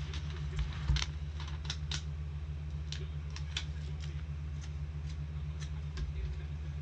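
Trading cards being handled: irregular light clicks and snaps of card stock and plastic sleeves, over a steady low hum.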